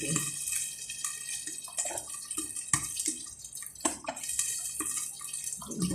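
Water running from a kitchen tap into a sink, a steady hiss, with a couple of sharp clinks about midway.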